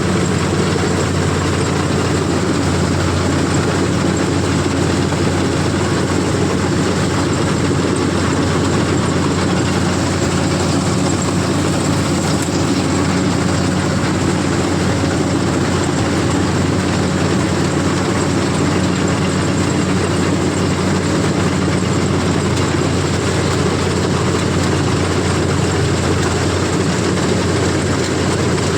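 CLAAS combine harvester's diesel engine and machinery running steadily at a constant pitch and level.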